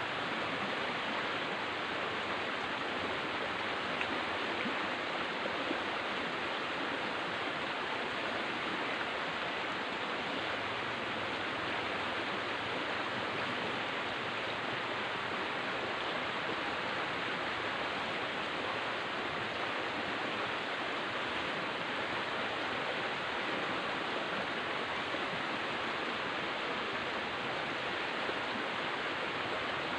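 River water rushing and burbling steadily, an even unbroken rush with no change in level.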